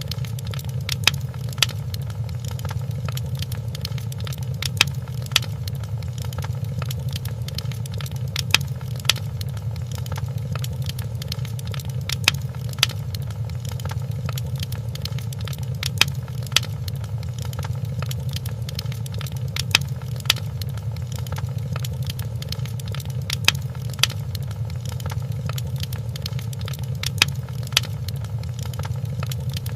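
Fireplace fire crackling: a steady low rumble of burning with sharp pops that come in pairs about every four seconds, evenly spaced.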